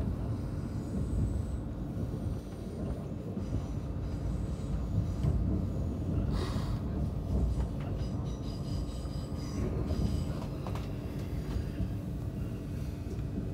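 Train running at speed, heard from inside the carriage: a steady rolling rumble of wheels on rails with a constant low hum. From about eight seconds in a thin, high wheel squeal joins it, and there is a brief rushing burst about six and a half seconds in.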